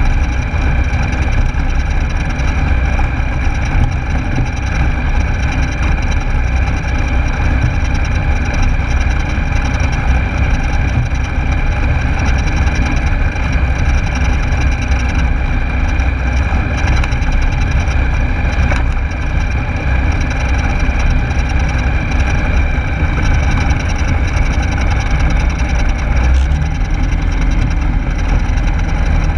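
Rans Coyote S6's Rotax 912S engine running steadily, heard from inside the cockpit as a continuous drone with a high whine over a heavy low rumble. About 27 s in the sound changes and a steady low hum takes over.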